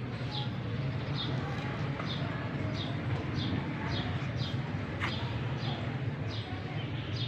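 A small bird chirping over and over, a short high falling chirp roughly every two-thirds of a second, over a steady low rumble.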